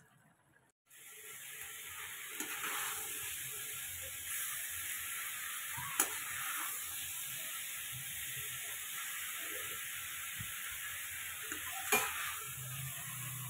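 Minced meat, greens and potatoes sizzling in a hot metal kadai while a metal spatula stirs them, the steady frying hiss starting about a second in. The spatula clinks sharply against the pan twice, about halfway through and near the end.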